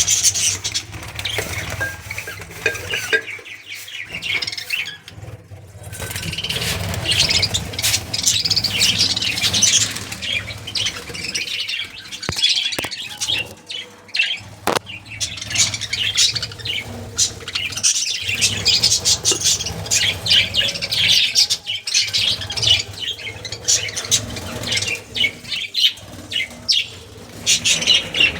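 A colony of budgerigars chattering, with many quick overlapping chirps and squawks. A low steady hum runs underneath.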